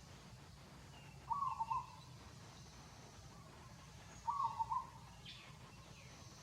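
A bird calling twice, a short call of a few quick notes about three seconds apart, with faint higher chirps between them.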